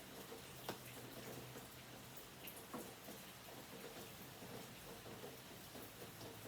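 Near silence: faint room tone with a low steady hum and a few soft, sharp clicks.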